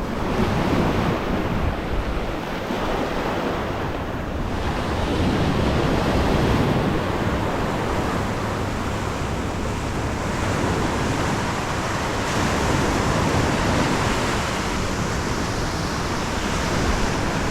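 Steady rush of wind and water, with wind buffeting the microphone, swelling and easing slowly.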